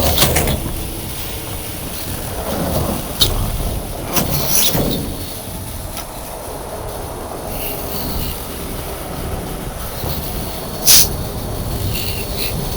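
Steady low rumble of heavy tow-truck engines running, broken by sharp clanks of rigging hardware: one about three seconds in, a couple around four to five seconds, and the loudest near eleven seconds.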